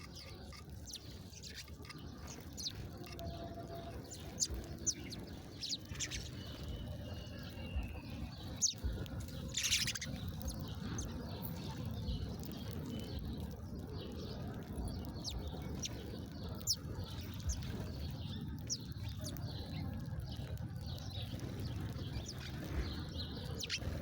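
Small birds chirping: scattered short, sharp chirps, some sweeping quickly down in pitch, over a steady low background rumble.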